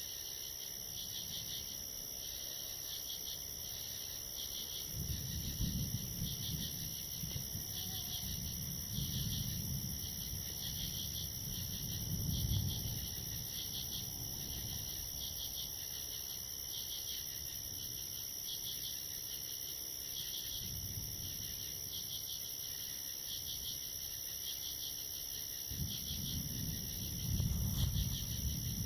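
Night insects, crickets or katydids, chirping in a steady, evenly pulsed chorus with a constant high ring above it. Low rumbles of distant thunder roll in several times, the strongest about halfway through and again near the end.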